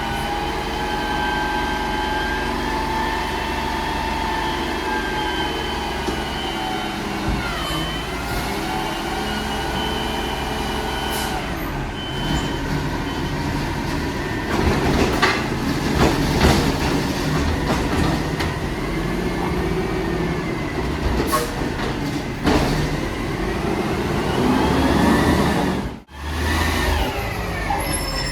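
Mack LR garbage truck's diesel engine running with its pitch rising and falling, and a gliding hydraulic whine, as the Labrie Automizer body packs recycling. Clattering knocks come about halfway through, and the sound cuts out briefly near the end.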